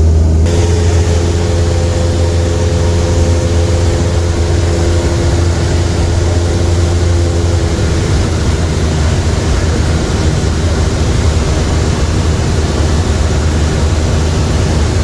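Small propeller airplane's piston engine running with a steady low drone, with a wide rushing noise that comes up about half a second in.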